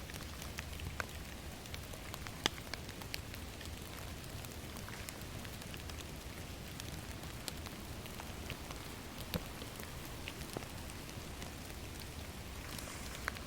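Steady rain falling, with scattered sharp taps of single drops; one louder tap comes about two and a half seconds in.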